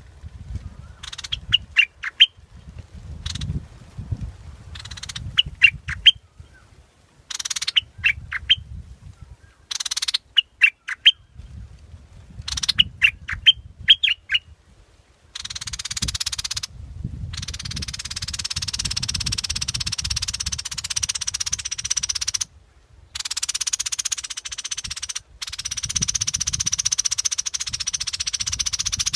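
Bulbul (nok prot) song phrases: five short bursts of quick, clear notes a few seconds apart. From about halfway through, a steady high hiss takes over, stopping briefly three times.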